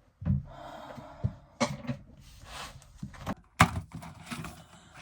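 A series of knocks and thuds from objects being handled or set down, with the loudest knock about three and a half seconds in.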